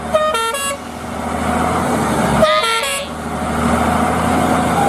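Cartoon vehicle sound effects: two quick runs of short, stepped horn toots over a steady engine hum that swells and fades.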